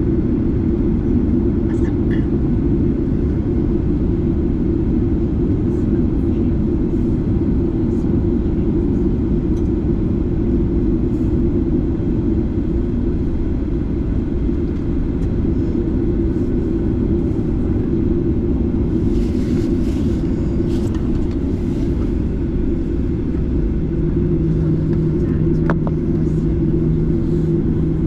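Steady roar of a Boeing 737-8's CFM LEAP-1B jet engines and the airflow, heard inside the cabin from a seat near the engine. A low steady hum joins in near the end.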